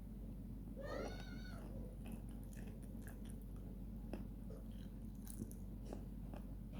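One short arching call about a second in, with a meow-like rise and fall, followed by faint scattered clicks and smacks of someone eating rice.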